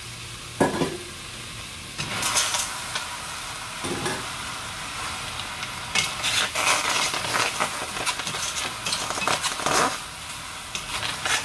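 Raw chicken pieces dropped into a hot stainless-steel pot of onions, cooking without oil. The meat sizzles and is turned over with two wooden spoons that scrape and knock against the pot. The sizzle picks up about two seconds in and surges with each stir.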